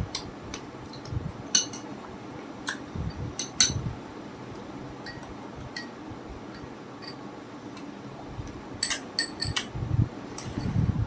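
Spoon clinking against a bowl of soup: a scattering of short, sharp clinks with a few clusters, over a steady low fan hum.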